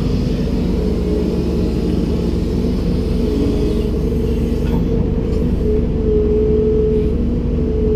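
Komatsu PC290-10 excavator's diesel engine running steadily under a deep rumble, with a pitched whine that grows stronger for a second or so past the middle. A few faint ticks sound around the middle.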